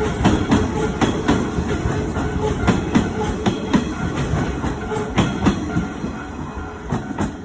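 Kintetsu electric train running past, its wheels clacking over rail joints in a quick, uneven series of clicks over a steady rumble that eases a little near the end.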